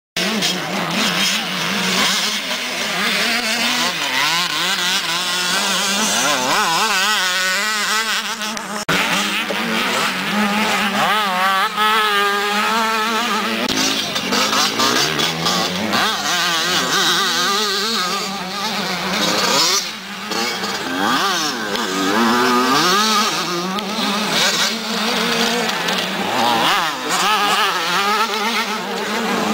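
Several motocross motorcycle engines revving hard together, their pitch climbing and dropping again and again as the bikes race by.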